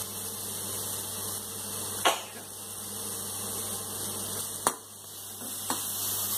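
Tomatoes, garlic and salt frying in ghee in a pan, a steady faint sizzle over a low electrical hum. Two sharp knocks stand out, about two seconds in and just before five seconds, with a lighter tap shortly after.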